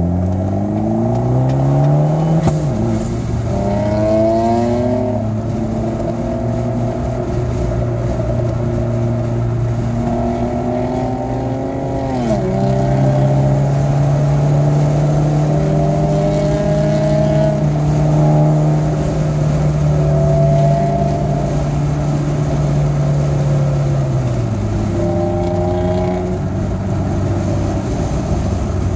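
Car engine heard from inside the cabin, driving at moderate speed: revs climb and drop at gear changes in the first half, then hold steady for a long stretch, ease off near the end and pick up again.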